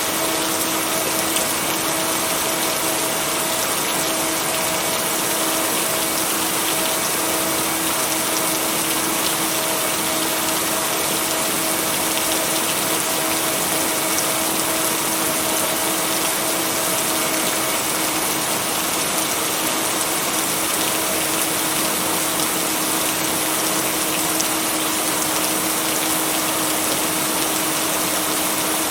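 Steady rain, an even hiss with no thunder or other sudden sounds, and a faint steady humming tone underneath.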